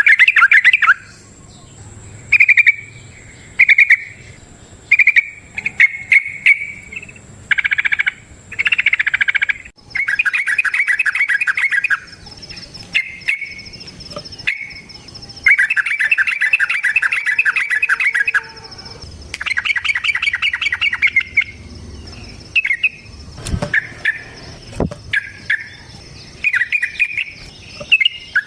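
Yellow-vented bulbul (trucukan) singing its long 'ropel' song: repeated bursts of rapid bubbling chatter, some drawn out into trills of two to three seconds, with short pauses between. A thin, steady high-pitched whine runs underneath.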